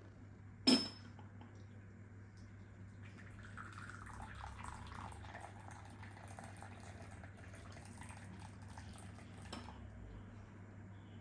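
A sharp clink of kitchenware about a second in, then water running for about six seconds, stopping with a click near the end. A steady low hum runs underneath.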